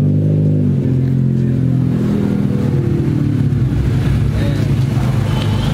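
Car engine running at low revs while manoeuvring slowly, its pitch rising and falling slightly.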